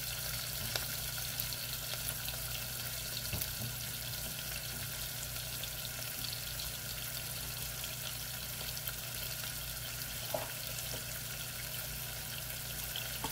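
Diced onions and green pepper sizzling steadily in oil in a saucepan, with scattered small crackles.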